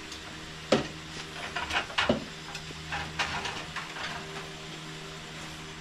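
Close-up chewing of a bite of dove taco in flour tortilla: a few short wet smacks and clicks, loudest about two seconds in, over a steady low hum.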